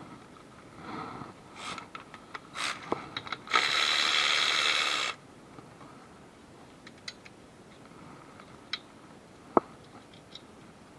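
Metal tools clicking and knocking, with one loud steady burst from a power tool lasting about a second and a half, about three and a half seconds in, that cuts off suddenly.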